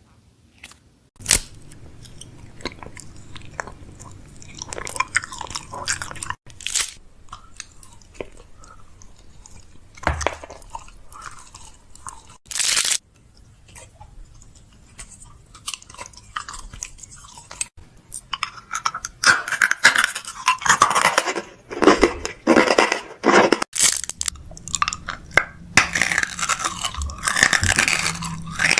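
Plastic snack packaging crinkling and rustling as snacks are handled and restocked, with scattered sharp clicks and knocks. The crinkling gets dense and louder in the last third.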